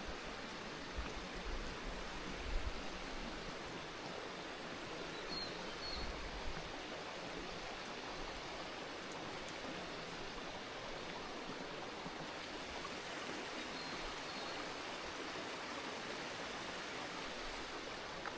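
Steady rush of a stream's running water, with a few faint, short, high bird chirps and some low thumps in the first few seconds.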